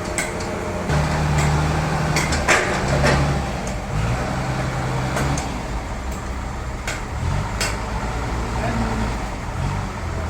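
Sawmill machinery running: a low motor hum that shifts pitch several times, with scattered knocks and clanks.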